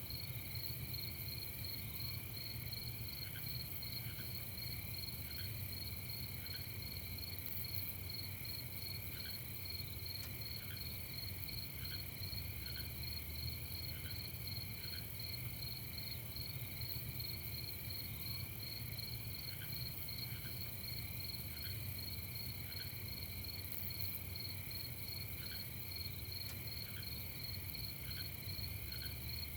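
A night chorus of crickets chirping steadily in several overlapping high, rapidly pulsing trills. Short faint lower notes repeat every second or so, often in pairs, over a low steady rumble.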